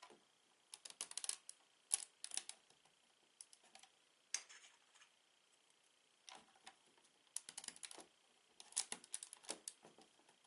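Plastic Lego bricks clicking and tapping as they are handled, in several short bursts of rapid clicks with brief pauses between.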